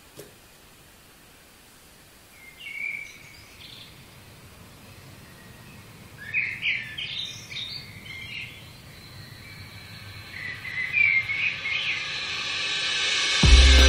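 Birds chirping in three short bouts over faint hiss, then a rising swell of noise. Music with a deep bass comes in right at the end.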